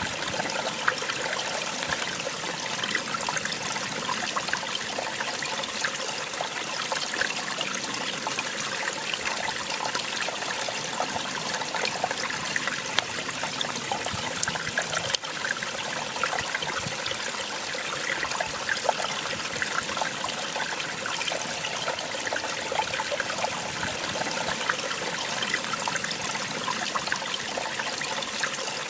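A small waterfall: water splashing and trickling steadily, a bright even rush with little low rumble. A single brief click about halfway through.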